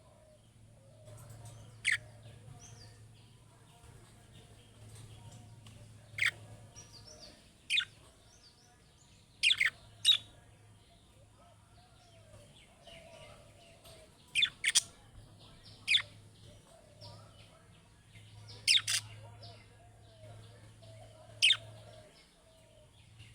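Budgerigars calling: about a dozen short, sharp, loud chirps at irregular intervals, some in quick pairs, over soft continuous chattering.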